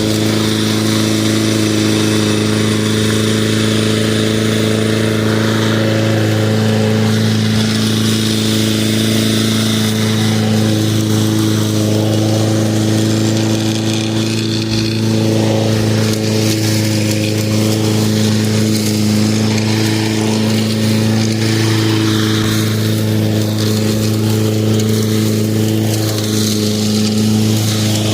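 Lawn mower engine running steadily at an even pitch.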